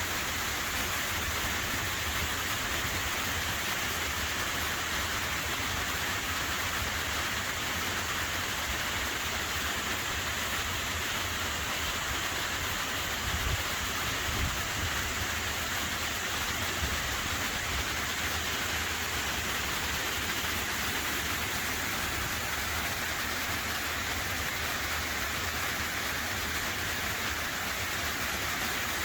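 Steady rush of swollen river water running high after heavy storm rains.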